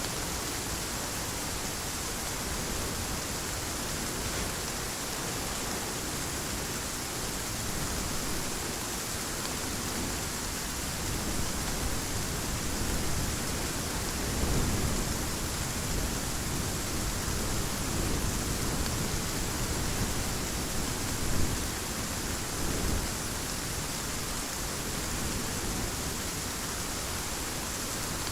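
Heavy rain falling steadily, with low thunder rumbling through the middle stretch and a sharper swell about three-quarters of the way in.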